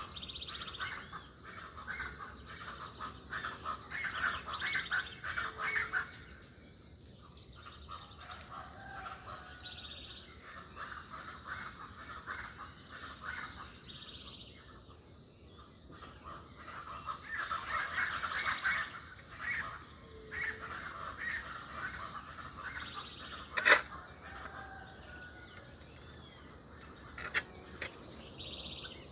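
Several wild songbirds chirping and singing together in overlapping calls, swelling and fading in waves. A sharp click cuts through about two-thirds of the way in, with a smaller one shortly after.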